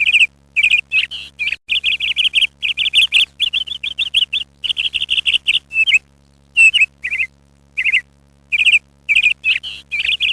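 Kea calling: rapid clusters of short, trilled chirps with a few gliding notes, broken by brief pauses and one longer gap about six seconds in.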